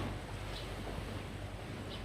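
Steady low rush of sea surf and wind in the background, with no single event standing out.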